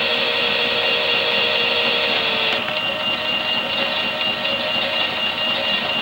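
Small electric motor of a toy Miele washing machine whirring steadily as it turns the drum mid-cycle, with a slight change in its pitch about two and a half seconds in.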